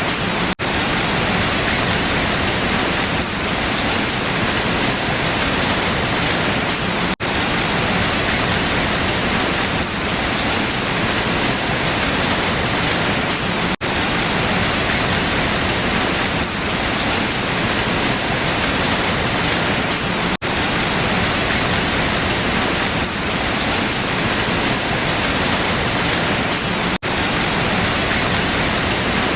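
Steady rain falling on leaves, a dense, even hiss, with a very brief dropout about every six and a half seconds.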